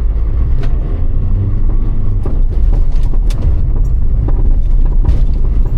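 Rally car engine running hard under acceleration, loud and low, with scattered sharp clicks.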